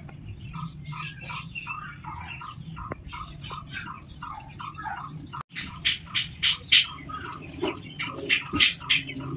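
Small birds chirping in quick, repeated short calls about three a second. They break off for an instant about five and a half seconds in, then come back louder and sharper.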